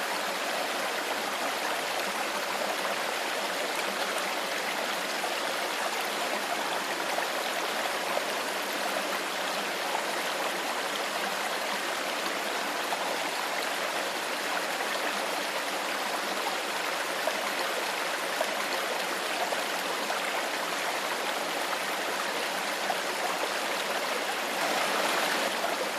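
Clear stream water flowing steadily, an even splashing and gurgling rush that swells slightly near the end.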